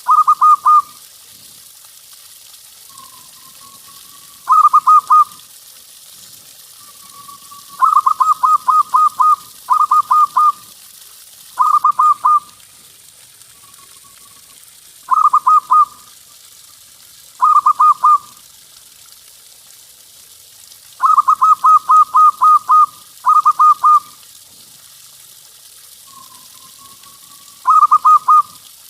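Zebra dove (perkutut) cooing in short bursts of rapid staccato coos, a burst every couple of seconds, with a soft rising coo in a few of the gaps.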